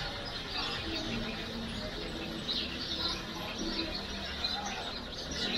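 Birds chirping, many short scattered calls, over a steady low background rumble of an outdoor market.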